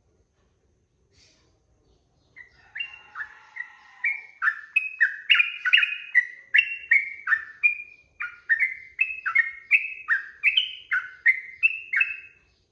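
Yellow-vented bulbul (trucukan) singing a long, fast run of loud, bubbly whistled notes, about two a second, switching between higher and lower pitches. The run starts a couple of seconds in after a quiet start and breaks briefly about eight seconds in.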